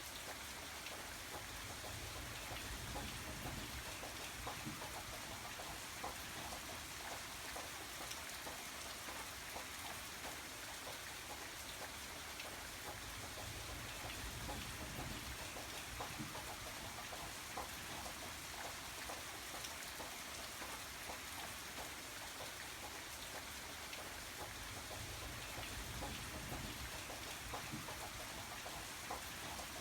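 Steady rain falling, with many small drop impacts.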